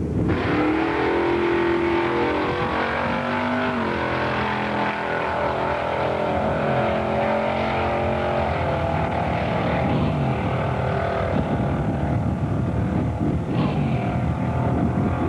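1976 Pontiac Trans Am V8 at full throttle on a drag-strip launch, its exhaust note rising, then stepping down in pitch about four seconds in and again near the middle as the automatic transmission shifts up.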